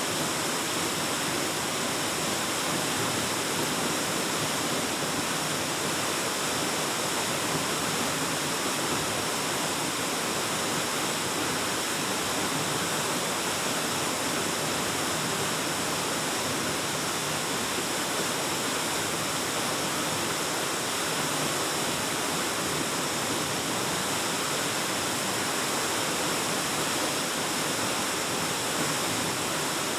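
Waterfall pouring, a steady, unbroken rush of water heavy in hiss.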